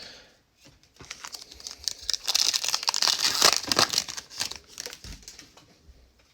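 Plastic trading-card pack wrapper crinkling and tearing as a pack is opened, a dense crackle that is loudest in the middle and fades near the end.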